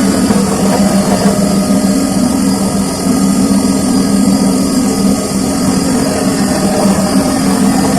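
Samsung washing machine running mid-cycle, a steady loud motor hum over even mechanical noise.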